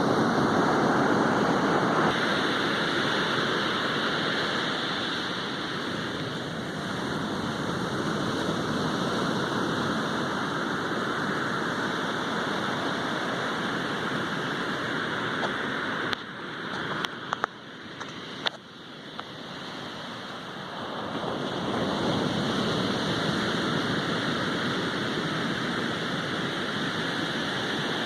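Sea surf washing on the shore in a continuous rush that swells and eases, dropping for a few seconds about two-thirds of the way through, where a few sharp clicks stand out.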